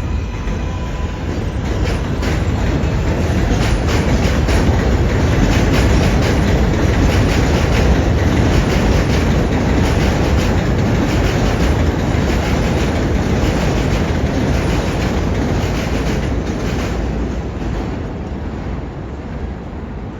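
An R188 7 subway train running past on the elevated line, with the dense rattle and clatter of its wheels over rail joints; it swells to its loudest about six seconds in and then slowly fades.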